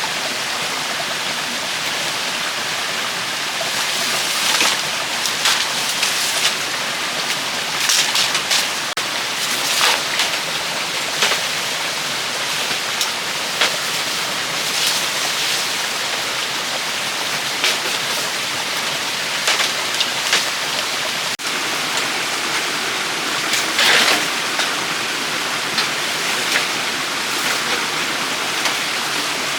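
Steady rushing noise like flowing water, with short irregular scraping or splashing sounds over it throughout.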